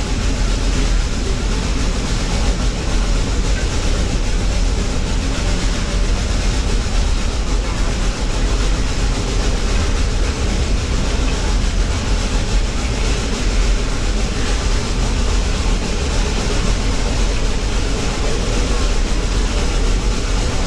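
Steady rumble of a moving train heard from on board, with no distinct beat of wheels or exhaust.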